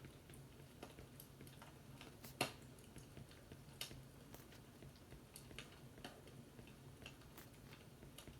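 Wood fire crackling with irregular small pops and snaps, the loudest about two and a half seconds in, over a faint steady low hum.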